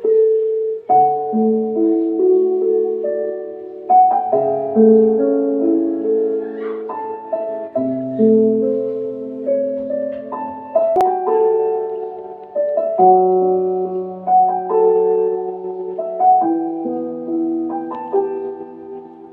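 Slow, gentle piano music: soft chords and single notes struck every second or two and left to ring.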